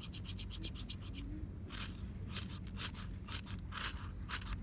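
Rhythmic rasping scrapes, about three to four short strokes a second, with a brief break about a second in before the strokes start again.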